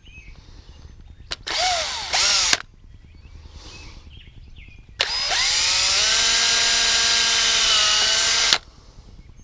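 Power drill boring a pilot hole in a PVC pipe cap: a short trigger pull about a second and a half in, then a longer run of about three and a half seconds that spins up in pitch and then holds steady.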